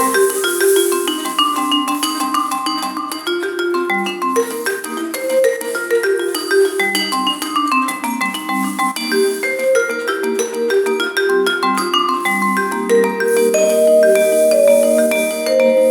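Music played on mallet percussion, marimba-like: quick runs of struck notes ringing over one another, with a high shimmer of cymbal or shaker on top.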